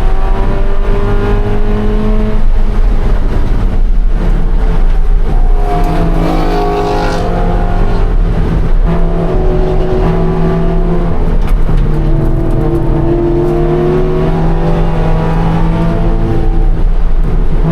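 2013 Scion FR-S's flat-four engine under race load, the revs climbing and falling through gearchanges and corners, with a brief hiss about six seconds in.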